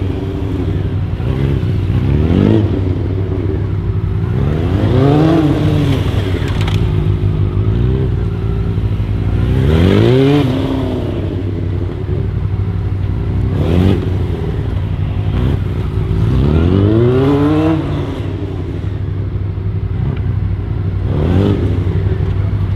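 Honda CBR929RR's inline-four engine revving up and dropping back again and again, about six rising surges, as the motorcycle accelerates in short bursts and brakes between tight turns.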